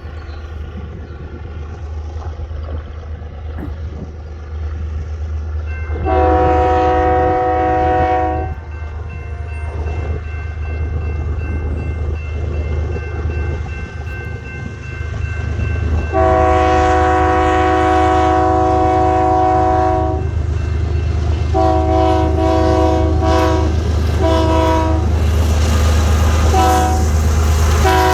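Diesel freight locomotive BNSF 7510 rumbling steadily, its multi-chime air horn sounding a salute. There is a long blast about six seconds in and another around sixteen seconds, then a run of shorter blasts as the sound grows louder.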